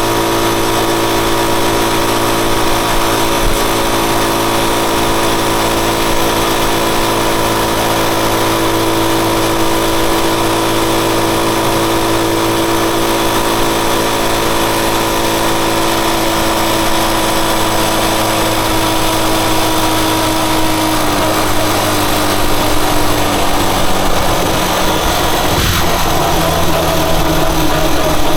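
Rusi Chariot 175 motorcycle engine running at a steady speed, its pitch drifting slowly lower over the second half as it slows, over a steady hiss.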